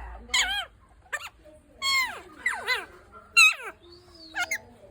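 Pet parrot giving a string of short, speech-like calls and squawks, each swooping sharply up or down in pitch, with brief pauses between them.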